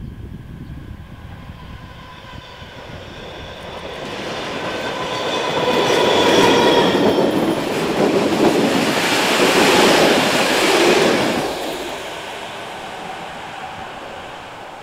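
A locomotive-hauled passenger train approaches and passes close by, its wheels running over the rails. A steady whine builds on the approach, and the sound is loudest as the coaches go past, then falls away sharply near the end as the last coach clears.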